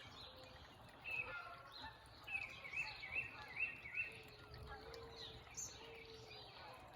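Several backyard birds calling at once: one gives a quick series of four repeated rising-and-falling notes near the middle, and another repeats short low notes through the second half.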